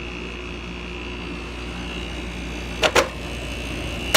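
2005 GoldStar 5400 BTU window air conditioner (model R5400) running steadily, its fan and compressor making a constant hum with a faint high whine. Two sharp knocks come close together about three seconds in, and another right at the end.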